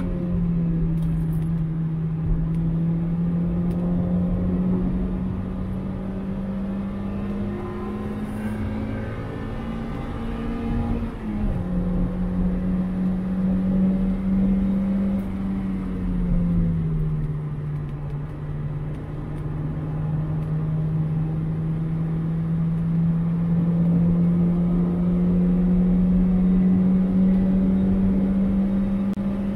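2001 Mazda MX-5 1.8 inline four-cylinder engine running hard at high revs, heard from inside the car. Its pitch climbs slowly, drops sharply about eleven seconds in, sinks again about sixteen seconds in, then climbs steadily to the end.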